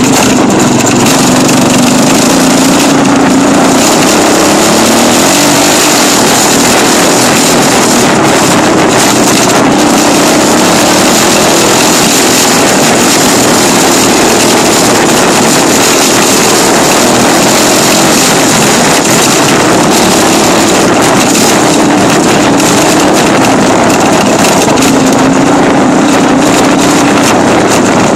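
Dirt bike engine running hard and steadily, its pitch rising and falling repeatedly with the throttle.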